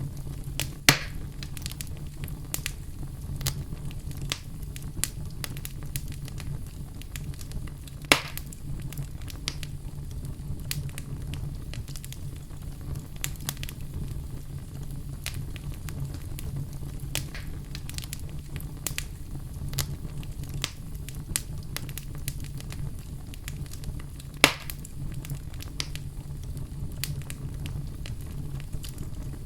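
Wood fire in a fireplace crackling, with a steady low rumble under a constant scatter of small snaps. Three louder pops stand out: about a second in, about eight seconds in and near the end.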